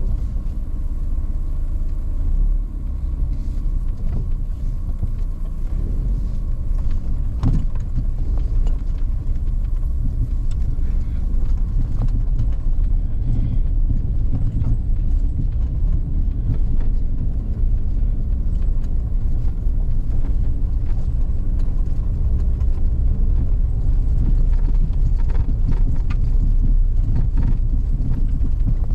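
A car driving, a steady low engine and road rumble with scattered small knocks and clicks.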